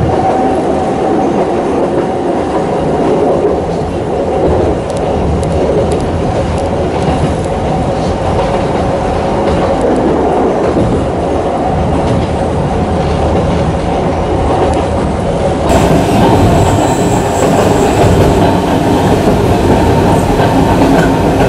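Running noise of a narrow-gauge electric train heard from the gangway between cars: a steady rumble of wheels on rail with occasional clicks. About sixteen seconds in the sound changes abruptly to a slightly louder, brighter run.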